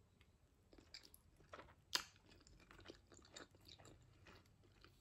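Faint close-up chewing of a mouthful of tuna pasta salad, with soft wet mouth clicks and one sharper click about two seconds in.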